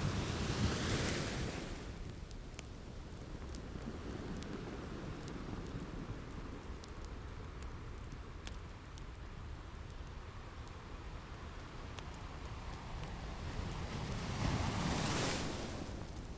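Ocean waves breaking on a shore, one surge at the start and another about fourteen seconds later, with a steady wash between them. Sharp crackles and pops of a wood fire are sprinkled through.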